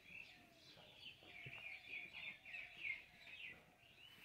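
Birds chirping faintly, a busy run of short high notes.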